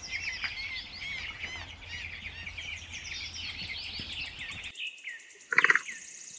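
A brood of domestic chicks peeping: many short, high chirps overlapping in a dense chorus. It cuts off suddenly about three-quarters of the way through, and a brief louder sound follows near the end.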